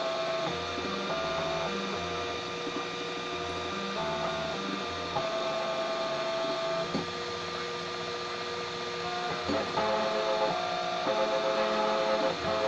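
3D printer's stepper motors whining at steady pitches that change every second or so as the print head moves, over a constant hum.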